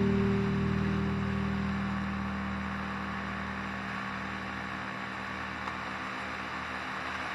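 A Vespa scooter's engine running steadily under wind noise while riding, with a held music chord fading out over the first few seconds.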